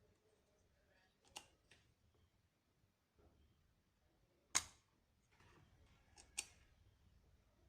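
A few short, sharp clicks and taps of small tools and parts being handled during circuit-board repair, five in all, the loudest about halfway through; otherwise near silence.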